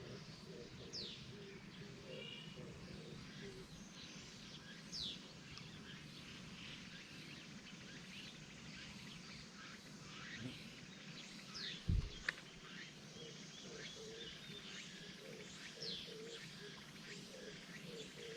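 Wild birdsong: a bird repeats a high falling whistle about every four to five seconds among fainter chirps. One brief knock about twelve seconds in is the loudest sound.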